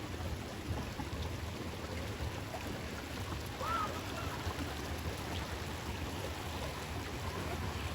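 Waterfall, its water rushing steadily.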